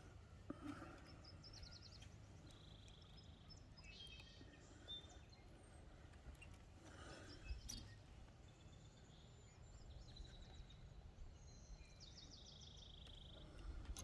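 Faint songs and calls of several wild birds: scattered high chirps, quick ticking runs, and a short buzzy trill heard twice, over a low steady background rumble.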